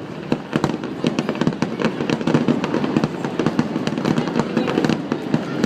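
Aerial fireworks bursting in a dense barrage: many sharp cracks and pops in quick succession.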